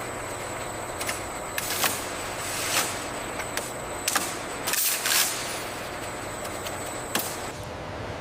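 Factory machinery running with a steady hiss and a thin high whine, with irregular sharp clicks and clacks, the loudest about two, four and five seconds in.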